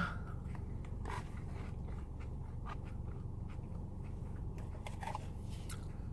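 A person chewing food close to the microphone, with faint scattered mouth clicks and small crunches over a low steady hum.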